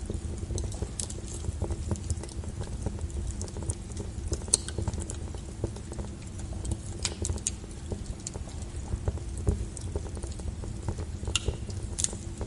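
Wood fire burning with a steady low rumble and irregular crackles and sharp pops, a few of them louder, such as one about four and a half seconds in and two near the end.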